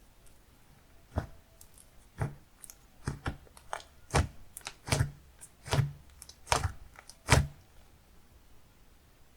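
Soft creamy slime being pressed and poked by hand, giving a series of sharp popping clicks from trapped air, about a dozen of them at irregular intervals of half a second to a second. They start about a second in and stop near the end.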